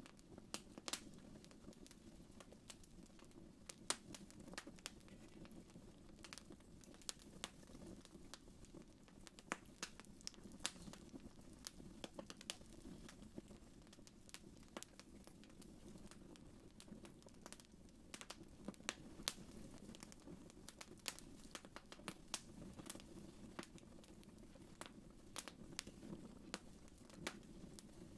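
Wood fire crackling in a fireplace: irregular sharp pops and snaps, several a second, over a soft steady low rumble of the burning fire.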